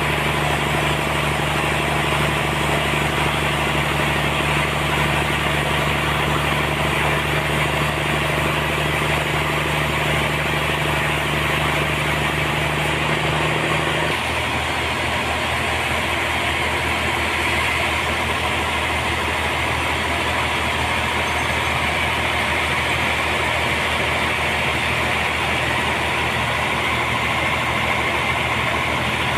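Sawmill machinery running steadily under power. About halfway through, its steady low hum drops out and the sound turns rougher.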